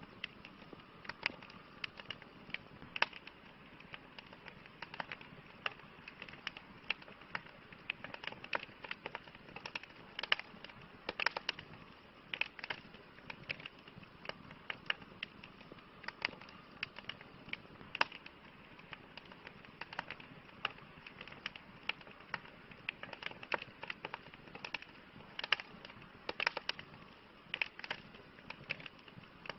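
Campfire crackling: sharp, irregular pops and snaps of burning wood, several a second, over a soft steady hiss of the flames.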